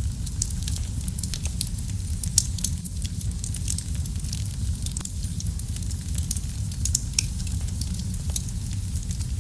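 Wood fire crackling in a fireplace: a steady low rumble of flames under frequent short pops and snaps, with one louder pop a little over two seconds in.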